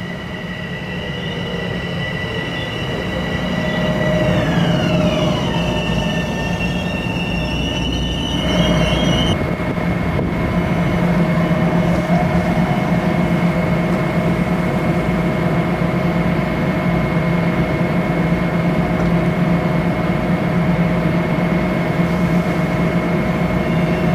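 A train passing close by with a steady rumble. High steady tones drop in pitch about four to five seconds in as it goes past. From about eight seconds in, a steady high whine rides over the rumble.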